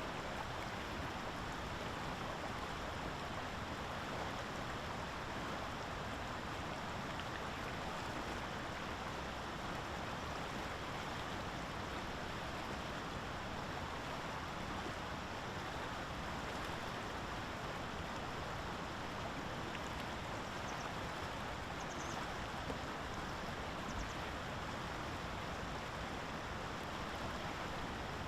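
Steady rushing water noise, even and unbroken, with a few faint high blips about two-thirds of the way through.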